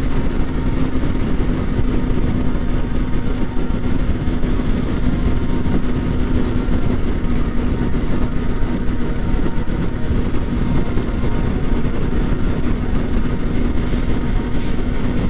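Kawasaki Ninja 400's parallel-twin engine running at a steady cruising speed, one constant engine note under heavy wind rush buffeting the microphone.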